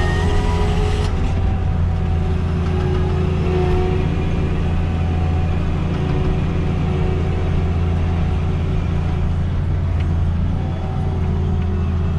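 Diesel engine of heavy sugar beet harvesting machinery running steadily, a constant low drone.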